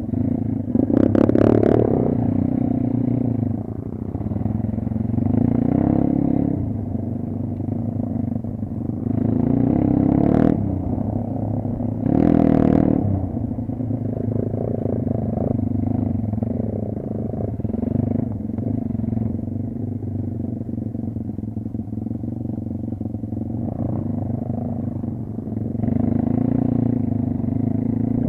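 Kayo dirt bike engine running while being ridden off-road, the revs rising and falling with the throttle. There are several sharp blips, the strongest about ten and twelve seconds in.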